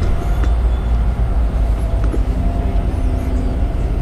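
Steady low rumble of a busy exhibition hall, with faint distant voices.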